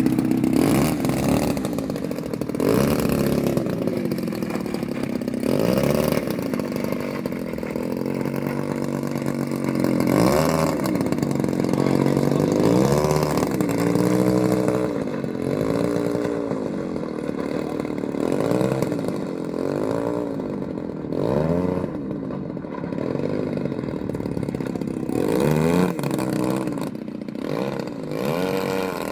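Gasoline engine of a radio-controlled scale Stinson SR-9 model airplane in flight, its pitch rising and falling again and again.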